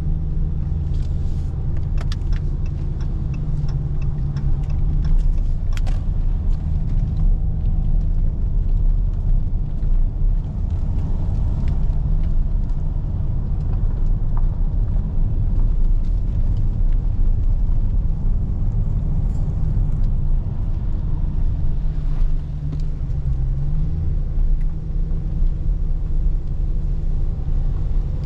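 Dodge Hellcat Redeye's supercharged 6.2-litre V8 running steadily with a deep rumble. A few sharp clicks come in the first several seconds, and the engine's pitch shifts briefly near the end.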